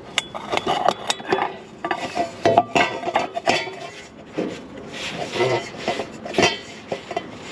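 Irregular clinks, taps and scraping of hand tools and metal parts being handled while a catch funnel is rigged under a tractor's fuel line.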